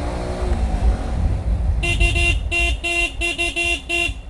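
Vehicle horn beeping about eight times in quick short honks at one steady pitch, over the low rumble of riding.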